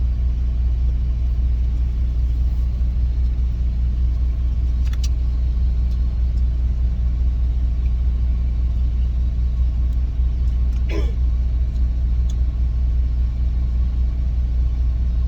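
Steady low engine rumble of a semi truck idling, with a faint click about five seconds in.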